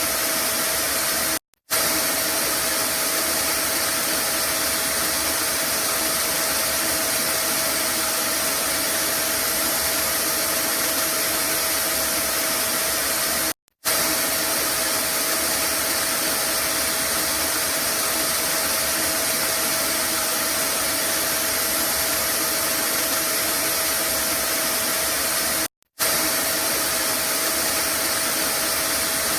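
Vacuum cleaner running steadily: an even rushing hiss with a constant motor whine. It drops out briefly three times, about every twelve seconds.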